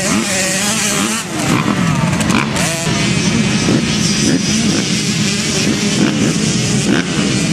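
Several small two-stroke 50cc motocross bikes racing, their engines revving up and down in overlapping rising and falling pitches.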